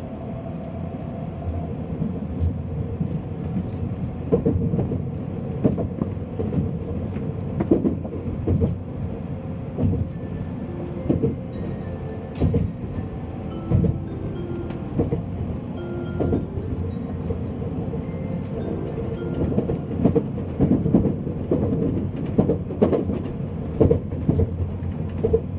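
Inside the passenger cabin of an N700-series Shinkansen running at speed: a steady rumble, broken every second or so by short knocks and thumps.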